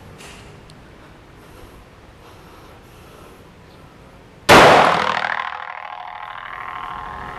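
A single Glock 30 .45 ACP pistol shot about four and a half seconds in, very loud and sudden, followed by a long ringing echo that fades over a couple of seconds. Before the shot there is only a faint background hiss.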